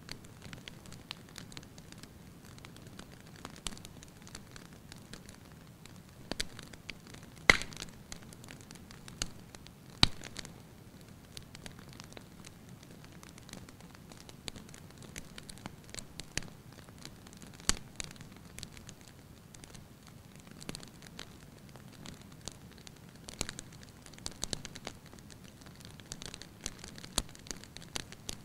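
Wood fire crackling in a fireplace: a soft steady hiss with scattered sharp pops and snaps, two of them much louder, about seven and ten seconds in.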